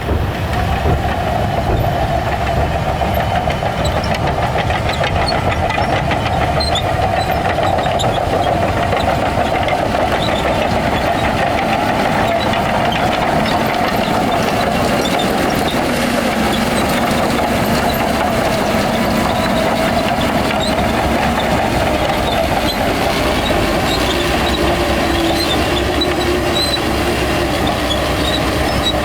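Shantui crawler bulldozer working, its diesel engine running steadily under load with the rattle of its tracks. About halfway through, a second, lower engine note joins in.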